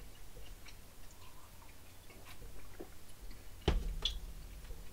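Quiet chewing of a mouthful of Snickers bar, with small scattered clicks, and a single sharper knock about three and a half seconds in.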